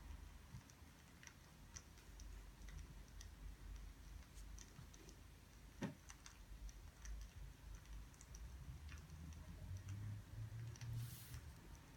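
Faint, scattered small ticks and clicks in a quiet room, with one sharper click about six seconds in and a brief hiss near the end.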